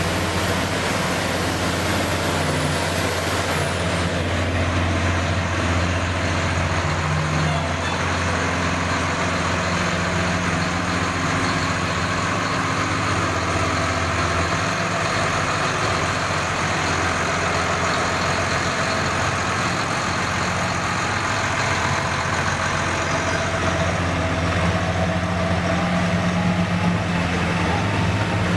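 Heavy truck engine running steadily with a low hum, with a whine that rises in pitch near the end.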